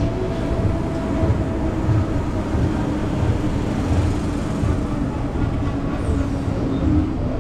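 Passenger train rolling slowly into a station: a steady low rumble of coach wheels on the track, with a regular low pulsing and a faint steady hum, heard from the open coach doorway.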